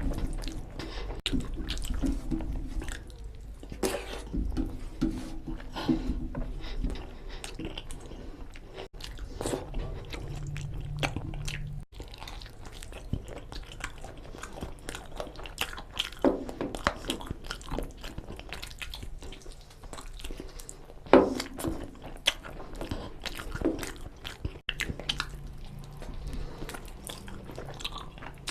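Close-up eating sounds of a person chewing mutton nalli curry with rice: wet chewing, mouth clicks and smacks in an irregular stream, with one louder smack about three quarters of the way through.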